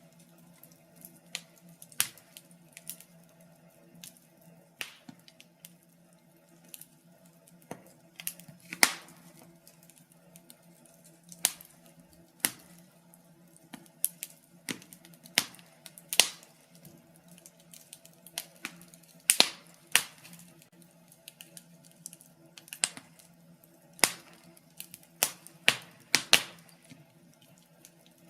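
Wood fire burning in a fireplace: irregular sharp crackles and pops, some louder than others, over a faint, steady low hum.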